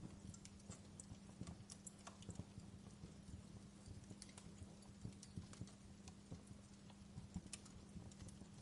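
Burning wood crackling in a fireplace: irregular small pops and snaps, several a second, over a faint steady low hum.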